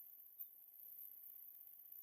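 Near silence: a faint high-pitched hiss, with one small click about half a second in.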